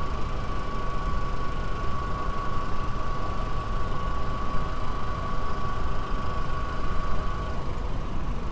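A 2004 VW Golf's 2.0-litre BEV inline-four engine idling steadily, with a steady high whine above the engine noise.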